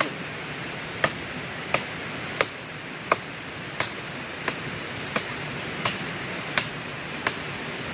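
Parang blade chopping into wood in short, sharp blows, about one every three-quarters of a second in a steady rhythm, over a constant hiss.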